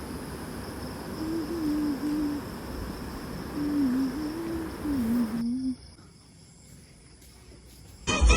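Steady high insect trill, typical of crickets, over a background hiss, with three short low wavering notes. It cuts off about five and a half seconds in, leaving a quiet hiss, and music starts just at the end.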